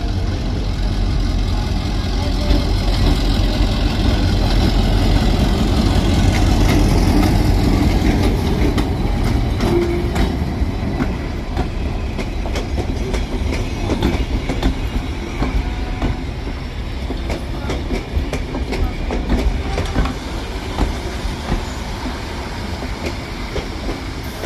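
Train rolling past on the track, with a heavy rumble and wheels clicking over the rail joints. It is loudest a few seconds in and then slowly fades.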